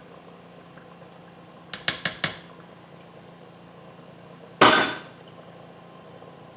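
Kitchen utensils knocking against a cooking pot: four quick taps about two seconds in, then one louder clank a little before five seconds.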